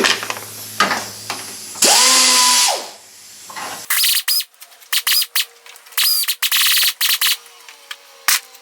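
Power drill spinning up and winding down about two seconds in, then a string of short trigger bursts with a high whine from about four seconds in.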